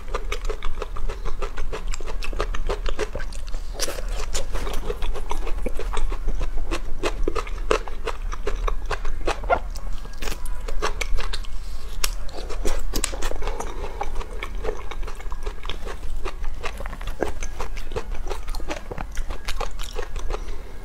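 Biting and chewing of spice-coated fried skewer food, fried eggplant slices: a dense, irregular run of sharp clicks and mouth sounds.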